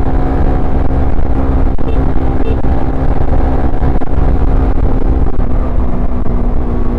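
Suzuki Satria FU FI's single-cylinder engine and exhaust running at steady cruising revs while the bike is ridden, easing slightly in pitch near the end, over a dense low rumble.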